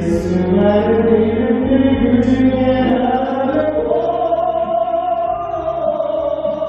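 Male pop vocalist singing a ballad over instrumental accompaniment, rising into one long held high note from a little past halfway.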